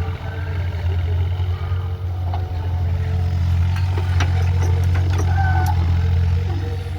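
JCB digger's diesel engine running steadily at a low pitch, with a few sharp metallic knocks around the middle.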